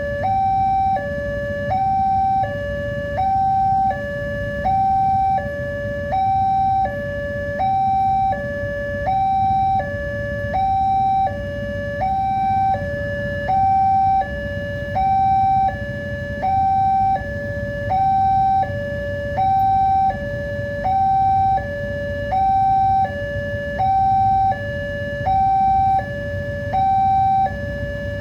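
Railway level-crossing warning alarm: an electronic two-tone signal switching back and forth between a higher and a lower tone, one full cycle about every 1.4 s, warning that a train is approaching. A steady low rumble runs underneath.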